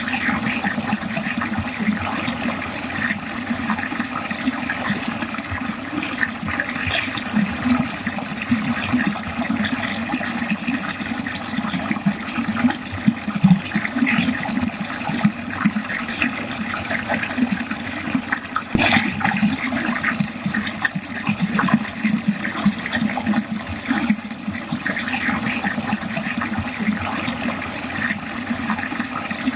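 Water running steadily down a drain, gurgling and splashing without a break. A single sharp click comes about 19 seconds in.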